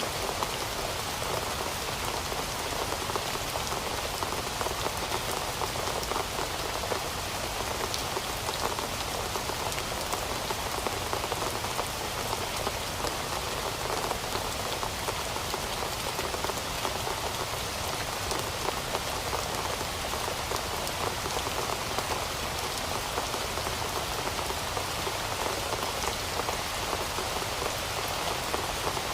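Heavy rain falling steadily: an even hiss of countless drops that holds at the same strength throughout.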